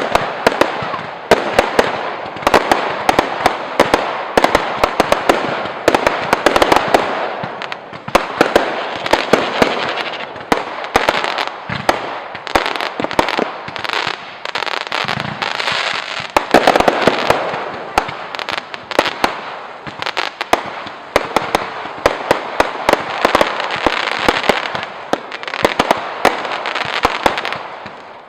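Fireworks display going off: a continuous run of sharp bangs and pops over dense crackling, with no let-up.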